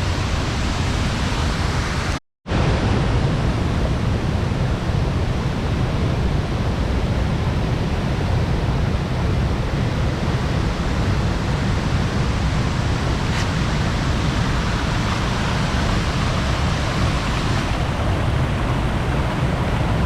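Rushing water of a large waterfall, a loud steady wash of noise, broken by a split-second dropout about two seconds in.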